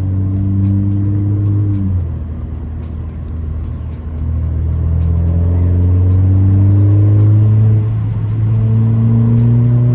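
2017 Alfa Romeo Giulia's turbocharged four-cylinder engine through a muffler-deleted exhaust, running steady, then dropping off about two seconds in. From about four seconds it accelerates with a rising pitch, dips briefly near eight seconds and pulls again.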